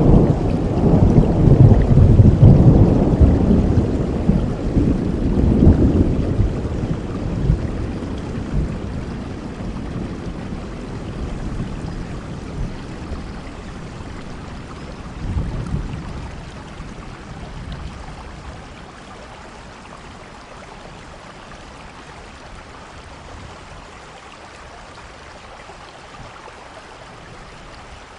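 Steady rainfall with a long roll of thunder that is loudest in the first few seconds and slowly dies away. A smaller rumble comes about fifteen seconds in, then only the even hiss of rain remains.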